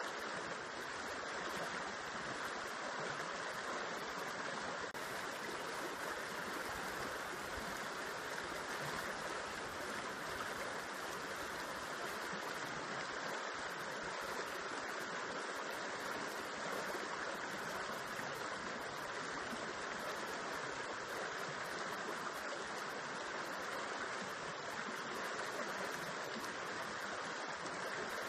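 A river running over rocks and spilling into a pool: a steady, even rush of water.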